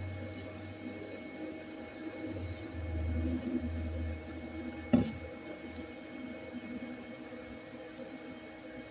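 Everything Bee Vac bee vacuum running with a steady whir as bees are sucked up, with a single sharp knock about five seconds in.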